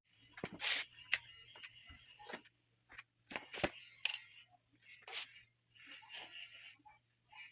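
Hands working on stand-fan parts: an irregular run of sharp clicks and knocks, with short scraping, rustling noises between them.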